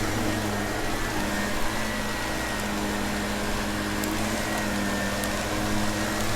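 Vacuum cleaner running steadily, its motor humming under a hiss of rushing air, with a few faint crackles as crunchy debris is sucked up.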